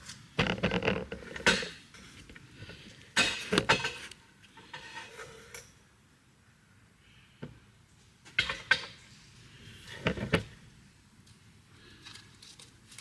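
Metal tools and parts clinking and clattering in several short bursts with quiet gaps between them.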